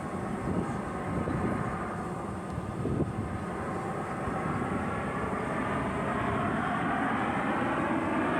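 Jet engine noise from the Snowbirds' CT-114 Tutor jets flying over, a steady roar whose pitch slowly rises as it grows louder over the last few seconds.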